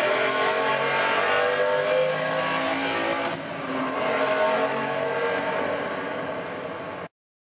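Car engine revving, its pitch rising and falling, loud and continuous, then cut off suddenly near the end.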